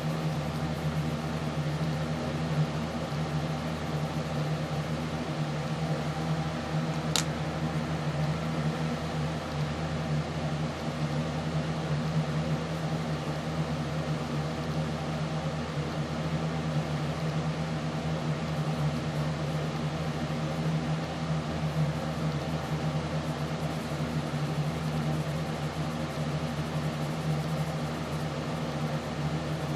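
Steady, unchanging machine hum, with a single sharp click about seven seconds in.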